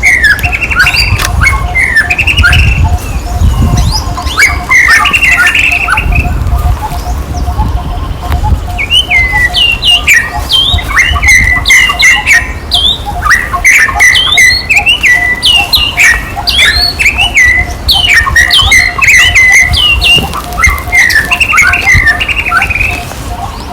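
Many short, high chirping and squeaking animal calls, some sliding up or down in pitch, coming thickest in the middle. Under them run a steady, rapid ticking and a low rumble.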